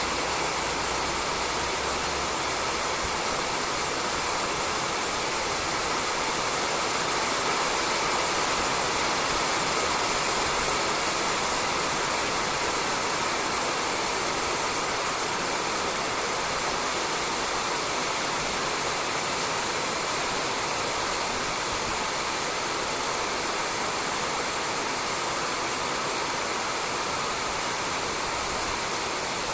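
Steady rain falling on a roof, an even hiss that keeps a constant level throughout.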